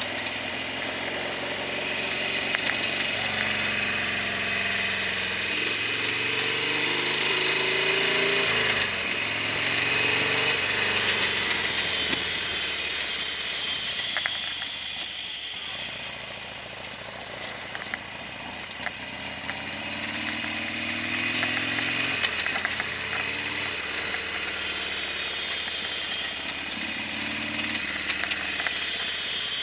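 Harley-Davidson Sportster XL1200R's 1200 cc air-cooled V-twin running on the road. It rises in pitch as the bike accelerates and drops back at each gear change, several times over.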